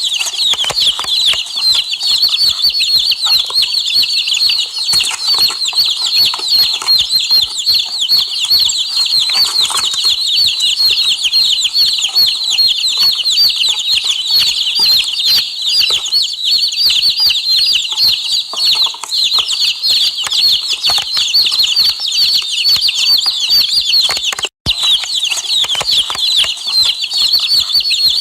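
Many chicks peeping together in a dense, continuous chorus of high, quick falling peeps, broken by a split-second gap near the end.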